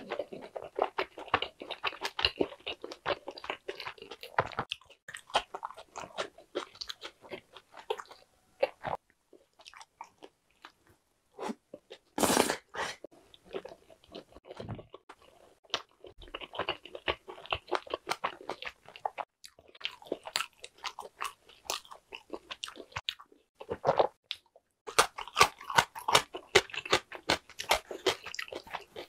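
A person chewing a mouthful of food with the lips closed: stretches of dense small clicks and crackles a few seconds long, broken by short pauses, with a single louder sound about twelve seconds in.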